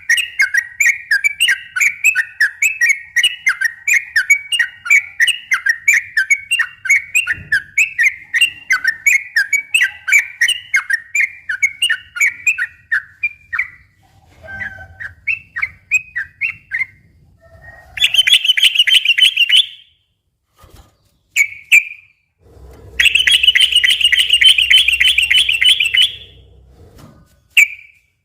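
Sooty-headed bulbul (trucukan) singing: a long run of quick repeated chirping notes for about the first half, then scattered short phrases and two fast rattling trills, the longer one a little past the middle of the second half.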